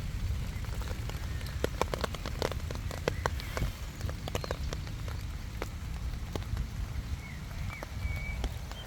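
Footsteps crunching on a park path: irregular crackling clicks, several a second, over a low rumble of wind on the microphone. A few short bird chirps come near the middle and towards the end.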